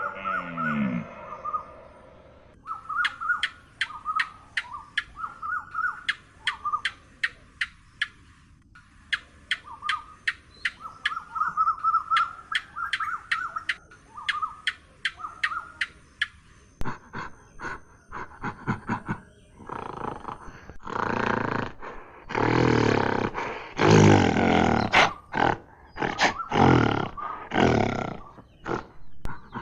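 A big cat roaring and growling in a series of loud bursts through the second half. Before that comes a long run of rapid sharp clicks mixed with short chirping calls.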